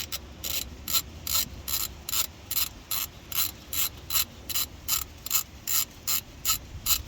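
3/8-inch ratchet driving a 5mm hex bit, clicking in steady strokes about two and a half times a second as a sensor's retaining bolt is backed out after being cracked loose.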